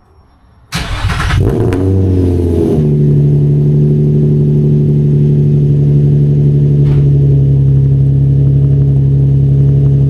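Infiniti G35's V6 engine, running on freshly fitted catless test pipes, starting up about a second in: a short burst as it catches, a flare in revs that falls back, then a loud steady idle.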